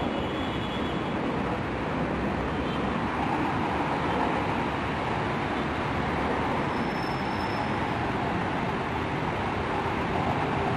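Steady rumble of moving vehicles.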